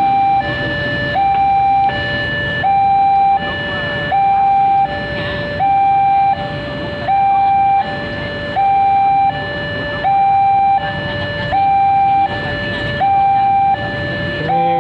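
Railway level-crossing warning alarm sounding an electronic two-tone signal, alternating evenly between a high and a low tone about every three quarters of a second. It is the warning that a train is approaching.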